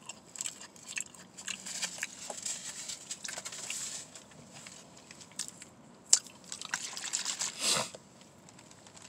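Close-up eating of a sub sandwich: chewing and biting with small mouth clicks, and a stretch of paper-wrapper rustling. A sharp click comes about six seconds in and a louder rustle shortly before eight seconds.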